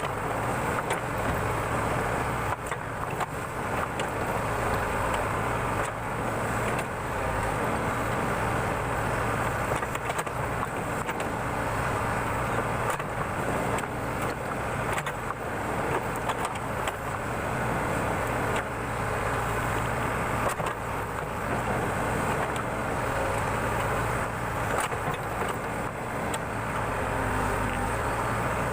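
Backhoe loader's diesel engine running steadily under load while it digs, with a few faint clicks and knocks.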